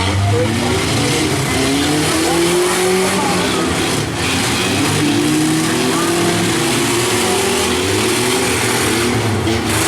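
Several compact pickup and van engines revving hard in a demolition derby. Their pitch climbs again and again, with some tyre squeal among them.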